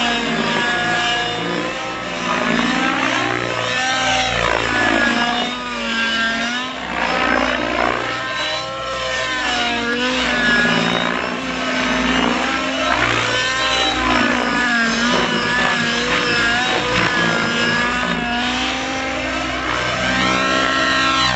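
A YS 91SR nitro glow engine on a radio-control model, running continuously with its pitch repeatedly rising and falling every second or two, as the throttle is worked in flight.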